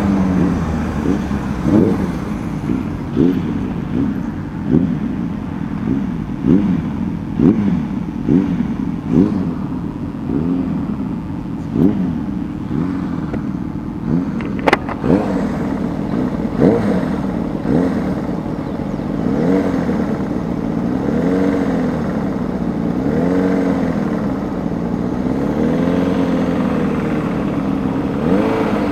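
Motorcycle engine running on the road, its pitch rising and falling over and over as the throttle is opened and closed. The swings come quickly at first and become slower, smoother swells later, with one sharp click about halfway through.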